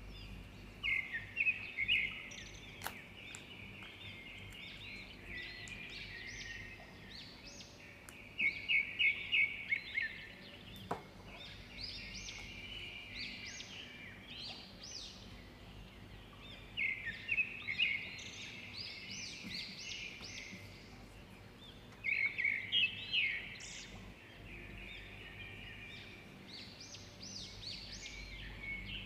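Bird song: short bursts of rapid, high chirping notes, repeated every several seconds.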